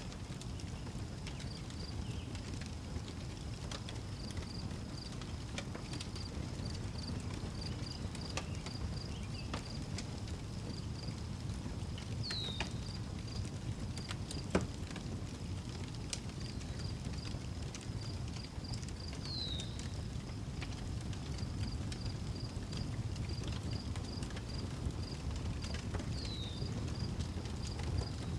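Outdoor wood fire crackling over a steady low rumble, with crickets chirping in a fast, even rhythm. A bird gives a short falling call three times, about seven seconds apart.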